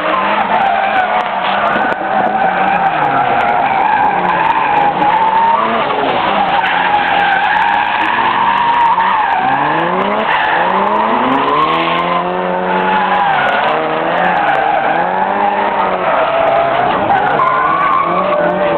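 Drift cars with their tyres squealing in one long, continuous screech. Over it the engines rev up and down again and again, with several rising and falling revs in the second half.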